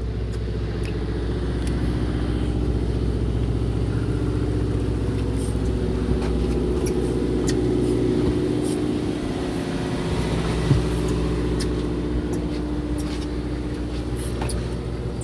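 Fishing boat's engine running steadily with an even low hum, with a few faint clicks and one short knock about ten seconds in.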